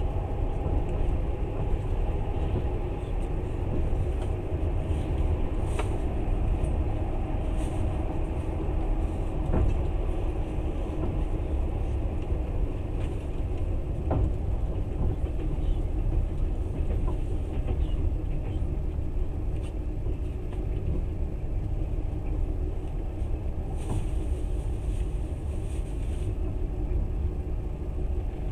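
Passenger train running at speed, heard from inside the carriage: a steady low rumble of wheels on rails, with a few faint clicks.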